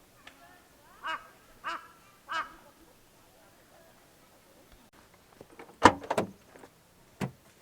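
A crow cawing three times in quick succession, harsh calls about two-thirds of a second apart. Later a loud knock, followed by a few smaller knocks and a sharp click near the end.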